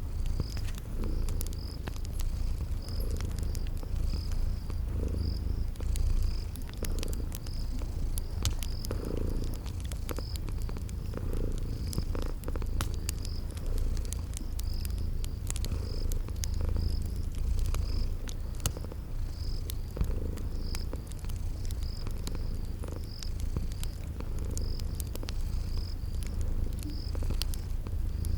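A cat purring steadily, swelling and easing with each breath, layered with crickets chirping about once a second and the scattered snaps of a crackling fire.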